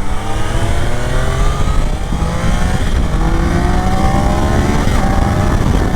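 2024 Triumph Daytona 660's three-cylinder engine accelerating hard through the gears. The engine note climbs in pitch in each gear and drops back at each of three quick upshifts, about two, three and five seconds in.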